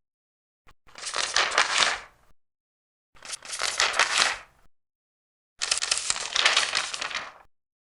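Large paper pages turned three times, each turn a papery rustle about a second and a half long, with silence between.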